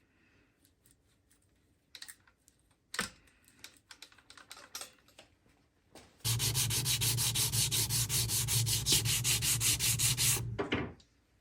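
A small electric power tool sanding or abrading runs for about four seconds, starting about six seconds in. It gives a steady motor hum under a loud rasp that pulses several times a second, then stops abruptly. Light clicks and knocks come before it.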